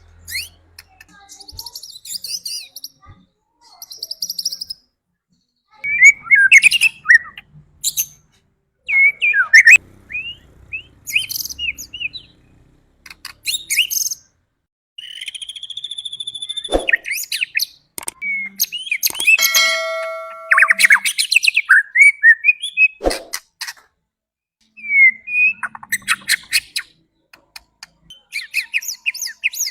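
White-rumped shama (murai batu) singing: a string of short, varied phrases of clear whistles and fast trilled notes, broken by brief pauses.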